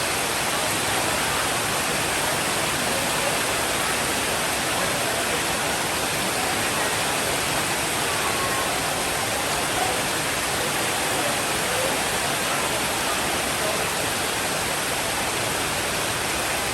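Steady downpour of rain, a dense even hiss with no change in level.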